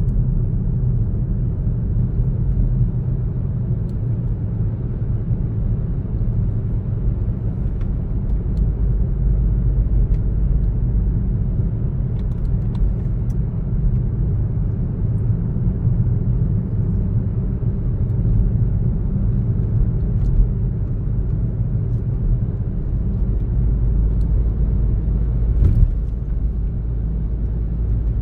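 A car driving at a steady pace, with the low, even rumble of engine and tyres on the road. There is a brief knock near the end.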